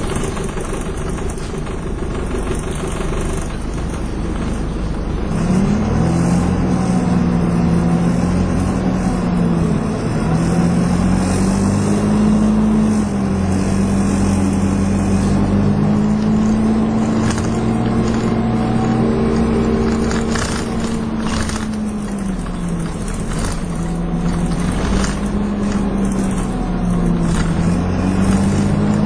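Dennis Dart SLF single-deck bus running along. Its engine and drivetrain pitch climbs about five seconds in and then dips and rises several times as the bus slows and picks up speed. There are a few knocks and rattles in the middle.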